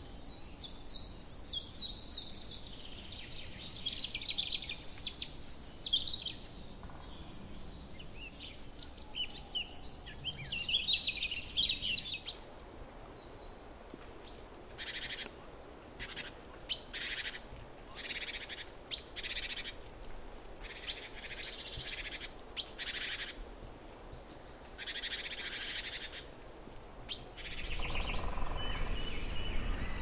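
Birds singing and calling: high twittering trills for the first dozen seconds, then a run of short, sharp repeated calls about once a second. Near the end a steady rushing noise comes in.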